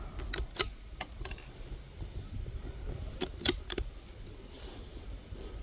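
Rifle scope windage turret being turned by hand, giving short sharp clicks: a few in the first second and a half, then three more about three seconds in.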